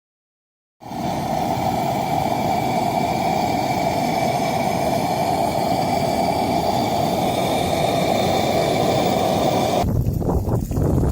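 A brass pressure lantern's burner gives a steady roaring hiss, cutting in abruptly after a moment of silence. About ten seconds in, it gives way to a low rumble of wind on the microphone.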